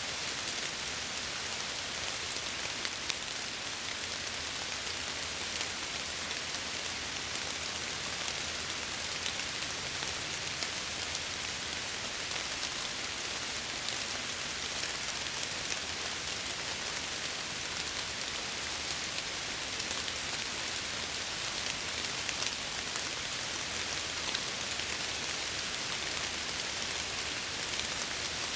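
Steady rain pattering against window glass: an even hiss of rainfall dotted with many small drop ticks.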